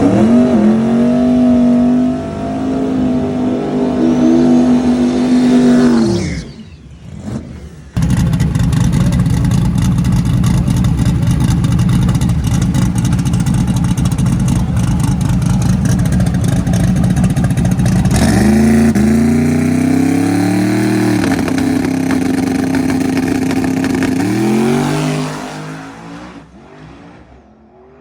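Truck engine revved hard and held high, dropping off about six seconds in. After a brief lull it comes back loud and steady for about ten seconds, then revs up and down several times before fading out.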